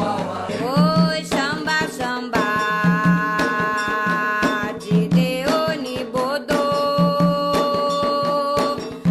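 Candomblé chant for Xangô: a voice singing long held notes, sliding up into each, over a steady hand-drum beat with a deeper drum accent about every two seconds.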